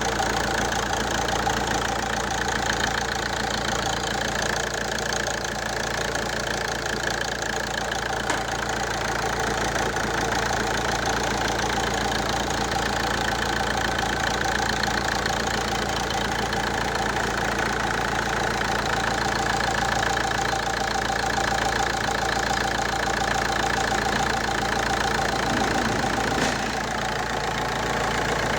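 Fiat Stilo JTD common-rail diesel engine idling steadily.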